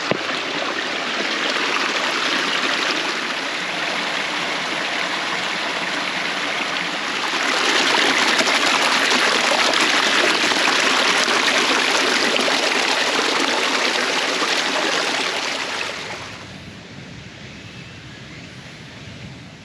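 Water running steadily, louder from about 7 seconds in, then dropping off sharply near the end.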